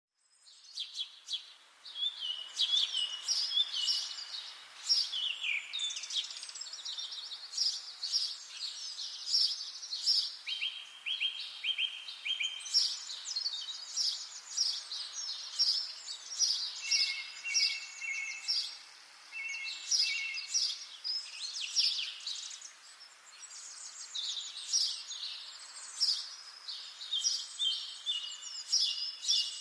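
Songbirds singing without a break: a busy run of high chirps and fast trills, with some lower buzzy repeated notes in the middle.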